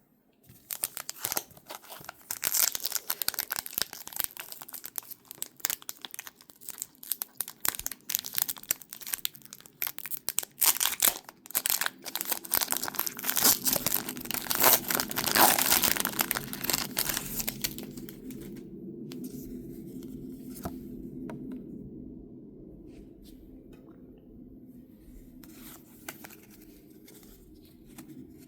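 Foil trading-card pack wrappers being torn open and crinkled, a dense crackling that builds to its loudest about 15 seconds in. After about 18 seconds it gives way to occasional light clicks and rustles of handling over a low hum.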